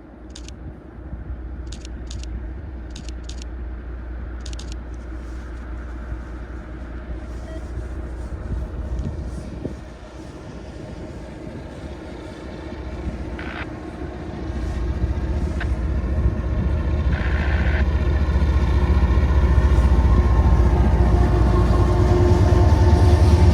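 Diesel freight train approaching: a low locomotive engine rumble that builds steadily louder through the second half and is loudest at the end.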